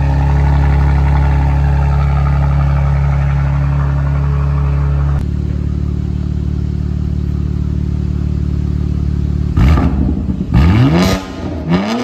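Car engine running at a steady idle, the tone dropping abruptly about five seconds in, then blipped through a few quick rising revs near the end.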